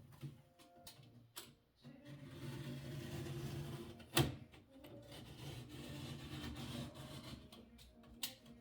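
A small power-tool motor runs in two stretches of about two seconds each, with scattered clicks and one sharp knock about four seconds in.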